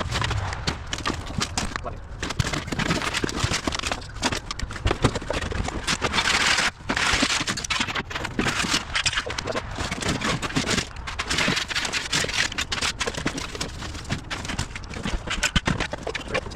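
Irregular clatter of knocks and scrapes, with a longer burst of rustling noise about six and a half seconds in.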